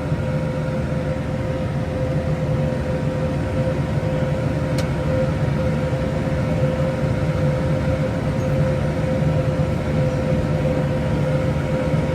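Case IH Maxxum 150 tractor running a Case IH DC133 discbine mower-conditioner at reduced PTO speed, about 570 rpm: a steady low drone with a constant whine over it.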